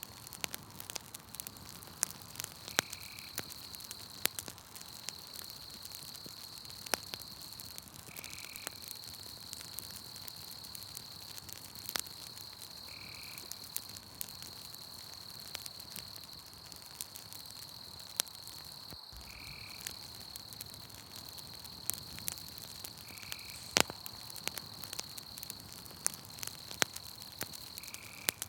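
Campfire crackling with frequent sharp pops and snaps. Behind it, night insects trill steadily, and a short call repeats about every five seconds.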